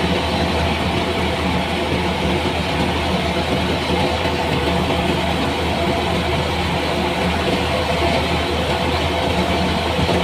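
An engine running steadily at a constant speed, giving a loud, even hum with several held low tones.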